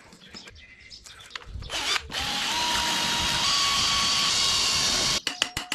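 A power tool cutting or drilling metal runs steadily for about three seconds. It starts about two seconds in, its whine steps up slightly in pitch, and it cuts off suddenly near the end, followed by a few sharp clicks.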